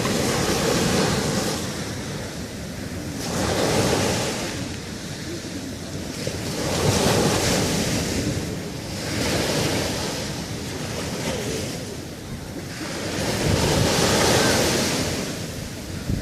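Sea waves breaking and washing up a beach, the surf swelling and easing about five times, with wind rumbling on the microphone.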